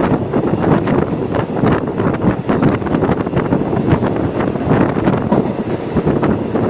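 Moving passenger train heard from on board: the steady rumble of the running train with irregular clattering, and wind buffeting the microphone.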